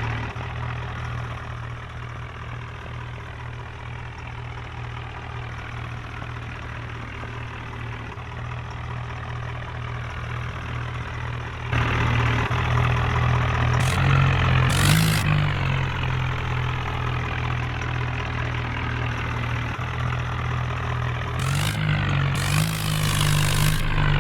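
Heavy diesel engine running steadily, then louder from about halfway, with its pitch rising as it revs or takes load. Short bursts of hiss-like noise come twice around the middle and again near the end.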